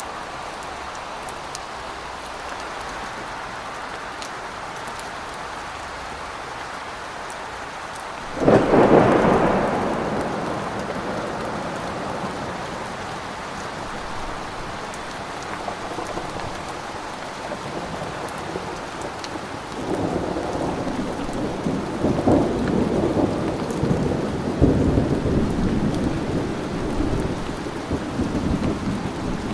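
Steady rain falling through a thunderstorm. A sudden loud thunderclap comes about eight seconds in and fades over several seconds. Rolling thunder rumbles in repeated swells from about twenty seconds in.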